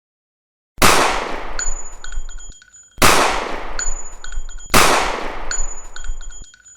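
A crash sound effect, a sudden loud burst of noise with faint ringing tones, that dies away over about two seconds. It plays three times in a row, each time with the same pattern.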